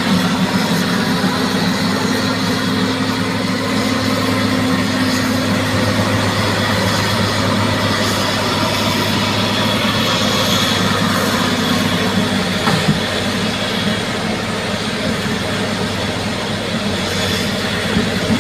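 Crawler bulldozer's diesel engine running steadily, with a single sharp knock about thirteen seconds in.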